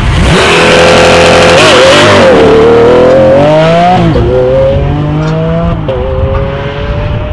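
Lamborghini Aventador's V12 engine accelerating hard, its pitch climbing and then dropping suddenly twice, about four and six seconds in, as it shifts up a gear each time.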